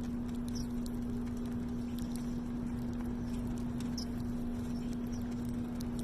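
Small birds feeding: scattered light pecking taps and a few brief high chirps over a steady low hum.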